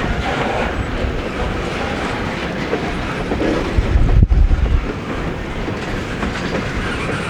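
Train rolling past, its steel wheels clattering over the rail joints, with a louder low rumble about four seconds in.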